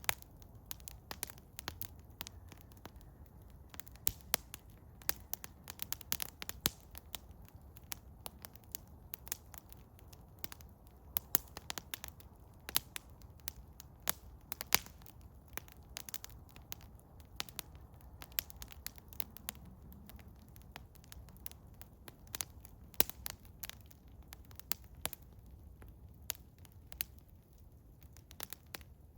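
Eastern hemlock wood fire crackling, with irregular sharp pops and snaps, several each second, some much louder than others.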